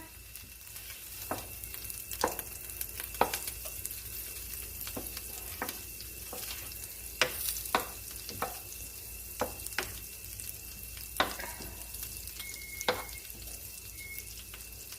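Butter melting and sizzling in a hot frying pan, with a utensil clicking and tapping against the pan at irregular intervals as it is stirred.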